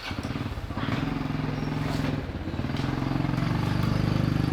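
Small motorbike engine running close by with a fast, even putter, getting louder toward the end.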